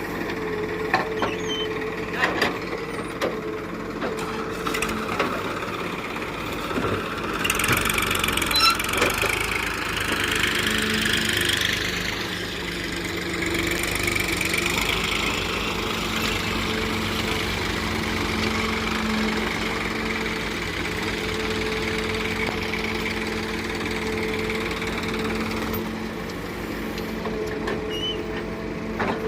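Heavy diesel engine running steadily, with a few sharp knocks in the first few seconds. From about seven seconds in, a louder rushing noise joins it, easing off again near the end.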